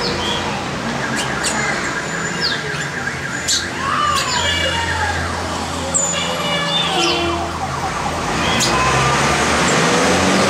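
Several birds chirping and giving short whistled calls over steady city traffic noise, with a low engine hum from a passing vehicle around the middle.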